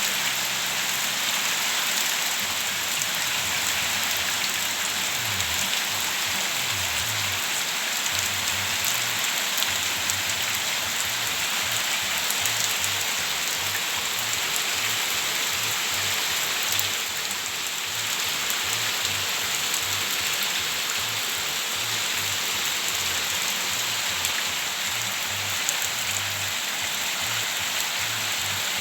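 Steady rain falling and hitting surfaces, a dense, even hiss.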